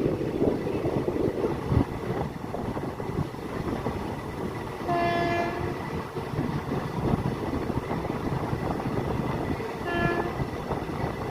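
Train running with a steady rumble and rattle, and two short horn blasts, one about five seconds in and a shorter one near the end.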